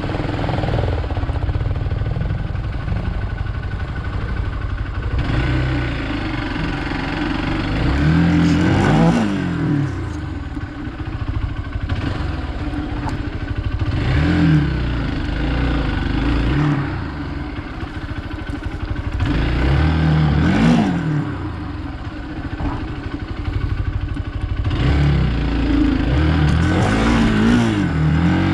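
Hero Xpulse 200 dual-sport motorcycle's single-cylinder engine riding off road, its pitch rising and falling as the throttle is opened and eased off four times, under a steady rush of wind and ground noise.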